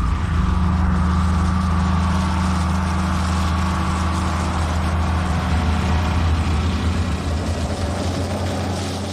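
A heavy vehicle engine running steadily at a low, even speed, loud at first and slowly fading over the last few seconds.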